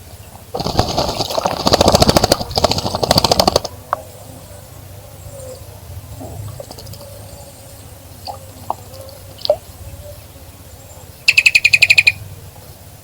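A bird splashing and fluttering its wings in bird-bath water for about three seconds, a rapid spray of sharp splashes. Near the end, a short, fast rattling bird call.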